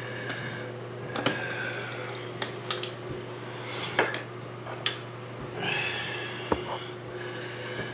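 Scattered light clicks and knocks of faucet parts and tools being handled while the faucet is put back together, over a steady low hum.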